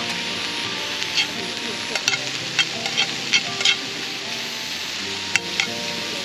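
Food sizzling and frying in a pan, a steady hiss with sharp pops scattered through, over background music.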